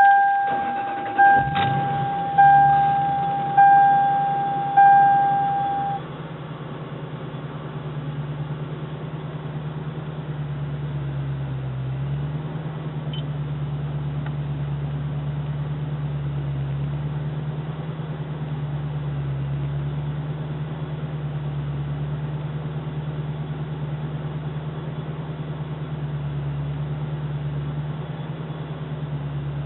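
Engine cold start: it catches about a second and a half in and settles into a steady idle. Over the first six seconds an electronic warning chime rings five times, about once a second.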